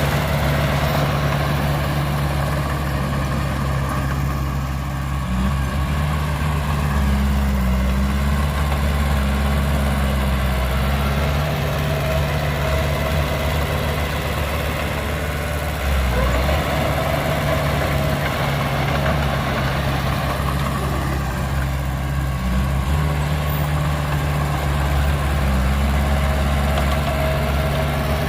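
Heavy diesel engines of earthmoving machinery running steadily with a deep hum, the engine note shifting slightly now and then.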